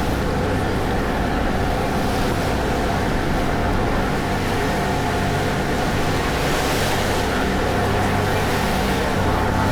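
Passenger ferry's engines running steadily at cruising speed, a low drone with a faint thin whine, over the rush of water and wind along the hull.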